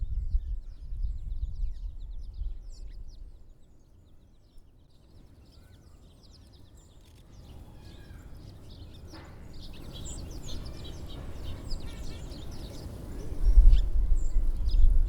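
Small birds chirping, many short high calls overlapping, growing busier in the second half, over a low rumble that is loudest at the start and again near the end.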